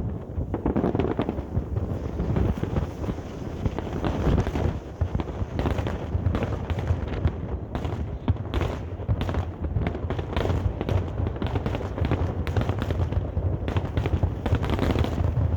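Fireworks exploding in a rapid, irregular series of bangs, with strong wind rumbling on the microphone.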